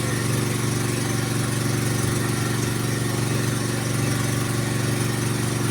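Engine of a well-drilling machine running steadily at a constant speed.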